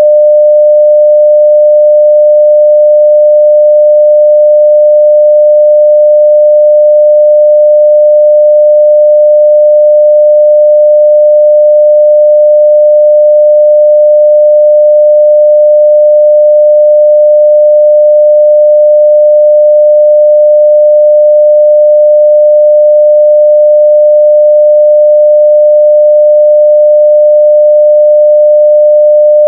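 A steady 600 Hz sine-wave test tone at full level (0 dB), one pure pitch held without change.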